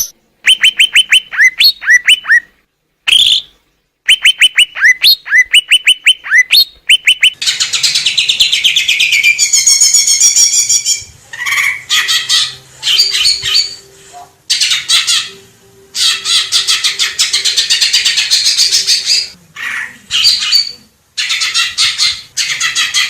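Green leafbird (cucak ijo) singing: first, quick runs of sharp sweeping whistled notes separated by short pauses, then from about seven seconds in a dense, fast, high chattering warble broken by brief gaps.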